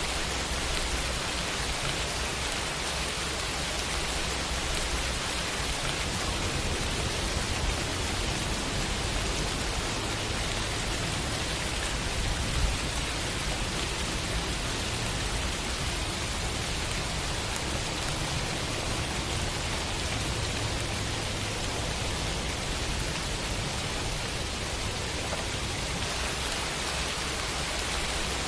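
Steady rain falling in an even hiss, with a low rumble underneath that swells and ebbs. One brief louder tap stands out about halfway through.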